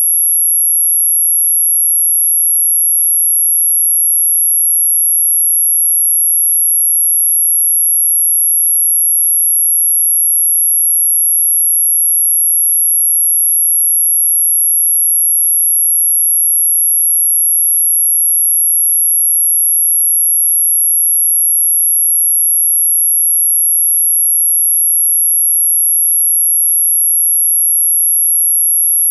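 A synthesized anti-mosquito repellent tone: a single very high-pitched pure tone held steady, unchanging in pitch and level.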